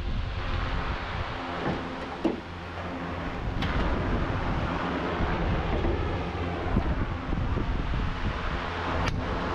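A steady mechanical hum, like an engine or motor running, with a few sharp clicks or knocks over it.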